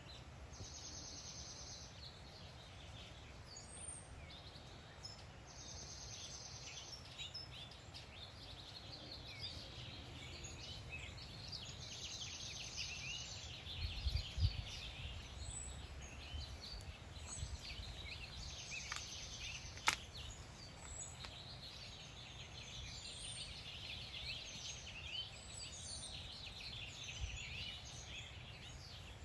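Outdoor ambience: many small bird chirps and calls, with a buzzing trill that comes back about every six seconds, over a low rumble. There are a few soft thumps around the middle and a single sharp click a little later.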